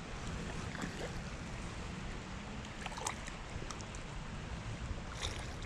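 Steady rushing of flowing creek water, with a low rumble of wind on the microphone and a few faint clicks.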